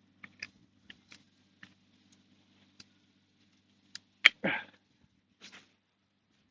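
Light clicks and taps of a chainsaw and bar oil bottle being handled just after topping up the bar oil, with one sharp snap about four seconds in followed by a brief scrape. A faint low hum runs underneath and stops shortly after the snap.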